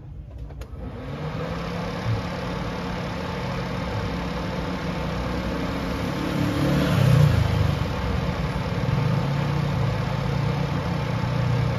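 Honda Accord Maestro car engine starting about a second in and running, revved once around the middle and then settling back to idle. This is a test start after the fuel-air mixture screw has been set to about one and a half turns, for an engine that was hard to start and prone to stalling.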